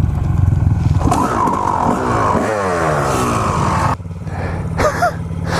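Dirt bike engine running and revving: the pitch climbs about a second in, then falls away between two and three seconds in, and the engine suddenly eases off at about four seconds.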